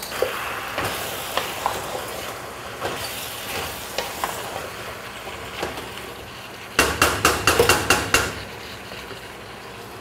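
Chicken and potatoes sizzling in a pot as they are stirred, with scattered knocks. About seven seconds in comes a quick run of about eight sharp clatters lasting just over a second.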